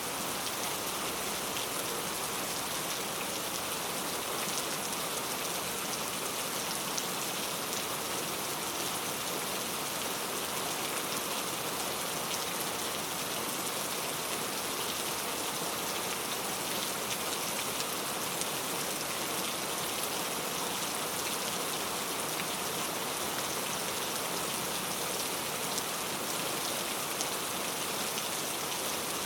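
Steady rain falling on a surface, a continuous hiss with many fine drop ticks and no change in intensity.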